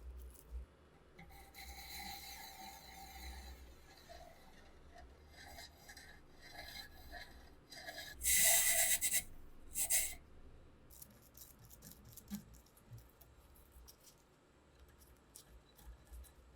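Hand abrasive work on a rusty rifle part during restoration: rasping rubbing strokes, with a quick run of short strokes in the middle. Two short loud hissing bursts come about 8 and 10 seconds in, and faint light clicks follow.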